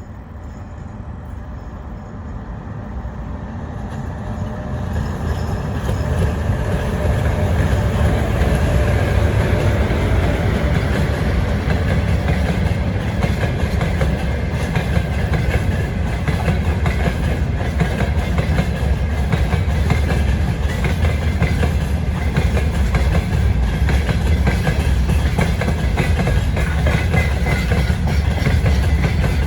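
Freight train coming up and passing close by, its wheels clattering over the rail joints. It grows louder over the first several seconds, then stays loud and steady.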